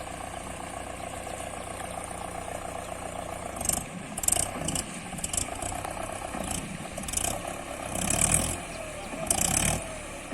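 Mahindra Yuvo 475 tractor's diesel engine running steadily at low revs. From about four seconds in, irregular short noisy bursts come over it, the loudest near the end.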